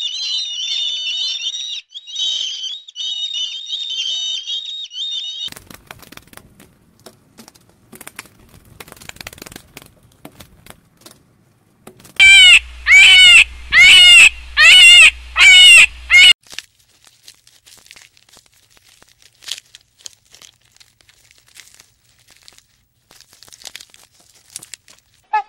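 Bird calls: a continuous high twittering, then a run of six loud, evenly spaced calls, each rising and falling in pitch, followed by faint scattered clicks.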